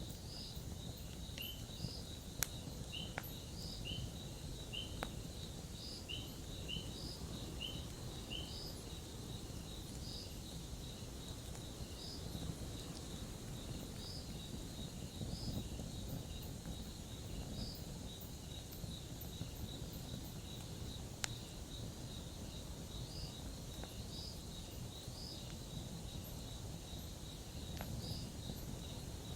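Campfire burning with a low rumble and a few sharp crackling pops, while insects chirp in a steady rhythm of about one to two chirps a second.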